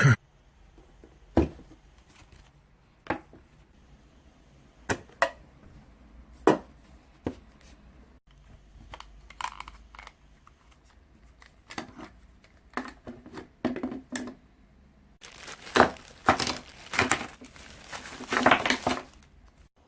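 Packaging being handled and opened: scattered clicks and knocks, then several seconds of crinkling near the end.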